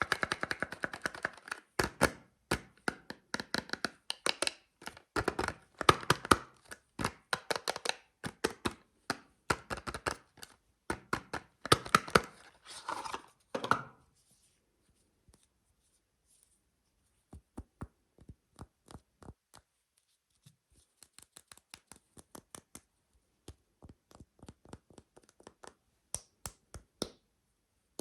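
Hands opening a bar of soap: dense crinkling and tearing of the wrapper with sharp clicks. After about 14 seconds it stops, and after a short silence light, separate taps on the soap follow, a couple a second.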